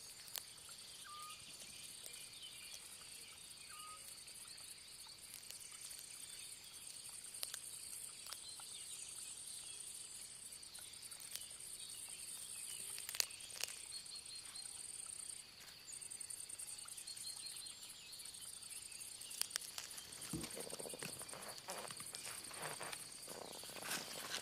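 Crickets and other night insects chirring in a steady, high continuous drone, with three short faint chirps in the first few seconds and scattered small clicks. About twenty seconds in there is a soft thump, followed by rustling.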